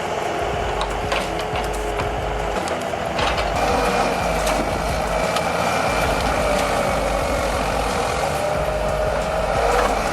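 Heavy truck engine running steadily, with a slowly wavering drone and scattered knocks and clanks.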